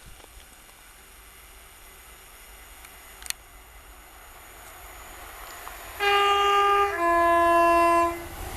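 Approaching train sounding its two-tone horn near the end: a higher note for about a second, then a lower note for about a second. A faint rumble of the train grows louder underneath.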